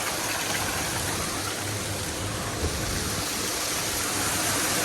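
Steady rush of moving water over a low, even machine hum at intensively stocked fish-farm tanks: the water circulation or aeration equipment running.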